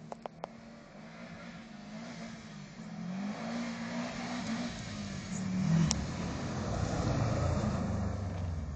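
Turbocharged Subaru Impreza's flat-four engine, fitted with a 3-inch downpipe, revving up and down as the car approaches and slides past, growing louder as it nears. There is a single sharp crack about six seconds in.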